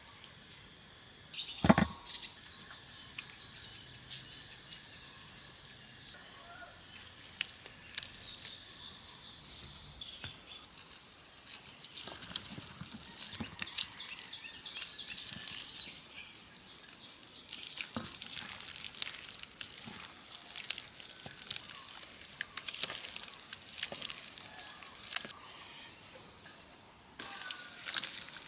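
A steady high-pitched chirring of insects, with scattered sharp clicks and taps and one louder knock about two seconds in.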